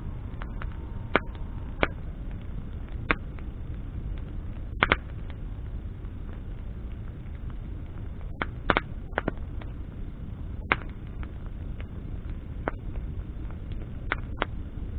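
Wood campfire burning, with a steady low rumble of flames and sharp irregular pops and crackles from the burning branches, about a dozen in fifteen seconds.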